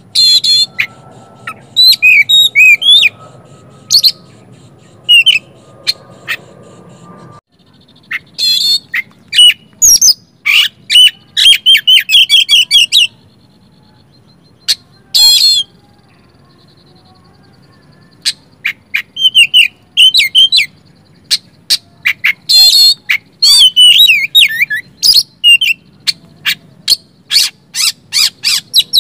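Oriental magpie-robin (kacer) singing: loud, quick runs of whistled and harsh chattering phrases in clusters, with a lull of a few seconds in the middle broken by one short burst.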